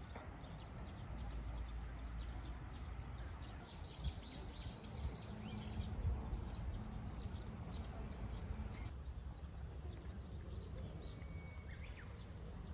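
Open-air ambience: a few faint bird chirps, bunched about four to five seconds in, over a low steady rumble.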